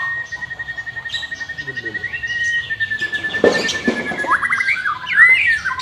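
White-rumped shama singing: one long, finely trilled whistle held on the same pitch, breaking into a quick run of short up-and-down whistled notes near the end. A brief scuffing noise comes in about halfway through.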